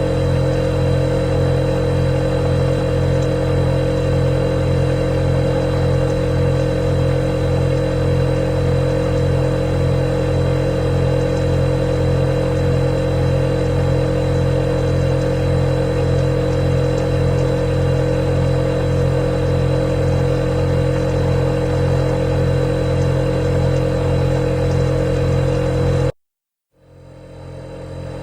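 Refrigerator running with a steady, loud hum. Near the end it cuts off suddenly to silence, then fades back in over a second or two.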